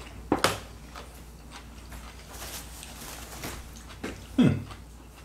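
A crisp bite into a raw cucumber spear about half a second in, followed by soft chewing. Near the end comes a short hummed "mm" that falls in pitch.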